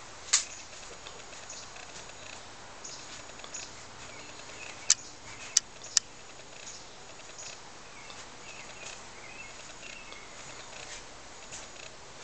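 Faint chirps of birds outside over a steady background hiss, broken by four sharp clicks: one about half a second in and three in quick succession around the middle.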